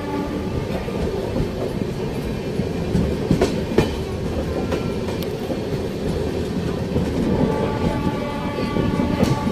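Passenger train's coaches rolling out of a station, wheels rumbling and clacking over rail joints and points, heard through an open coach door.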